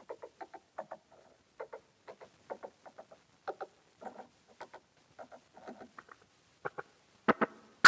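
Bass chromatic harmonica put through an effects pedal, its notes coming out as a quick, uneven string of short chopped pulses, several a second. The last few pulses near the end are the loudest.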